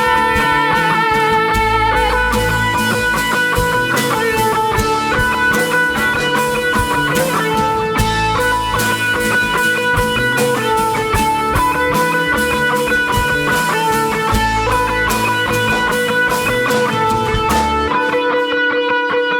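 Live rock band playing an instrumental passage: electric guitars leading over bass and drums, with no singing. Near the end the drums and bass drop out, leaving the guitars ringing.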